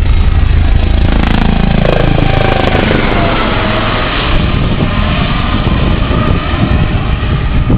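Coast Guard HH-65 Dolphin helicopter flying past, its rotor and turbine sound falling in pitch about two to four seconds in as it goes by.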